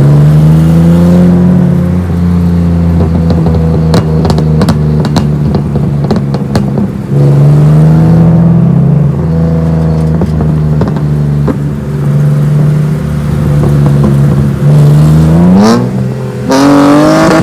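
BMW E46 running through its custom exhaust, the engine note mostly holding steady with small rises and dips, with a scatter of sharp exhaust pops and crackles. Near the end it revs up twice in quick rising sweeps.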